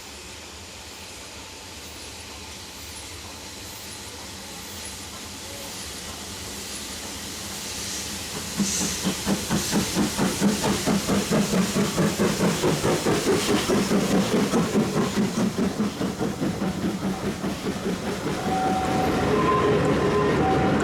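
Ivatt Class 2 2-6-2T steam tank engine approaching and growing louder, then working past close by from about eight seconds in. Its exhaust gives a loud, even chuff, about two and a half beats a second, over wheels clattering on the rail joints.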